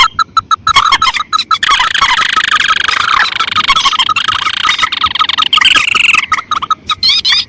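Recorded lure calls of rice-field rails and crakes (mandar and tikusan): rapid, repeated sharp notes that thicken into a dense overlapping chatter from about two seconds in, then thin out again near the end.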